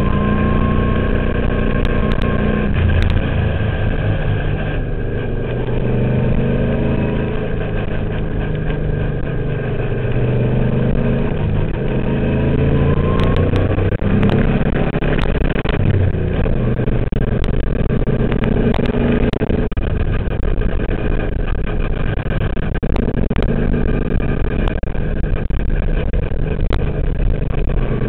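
Twin-turbo Subaru engine in a VW race car running hard at speed, its revs climbing and dropping again and again through the gears.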